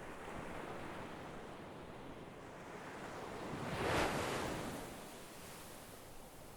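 Sea waves breaking on a shore: a steady wash of surf, with one wave swelling and crashing about four seconds in, then hissing back.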